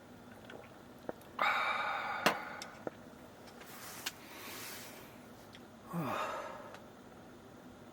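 A person sipping whisky on the rocks, with a sharp clink of the glass about two seconds in, then a breathy exhale and a short falling sigh of satisfaction near six seconds.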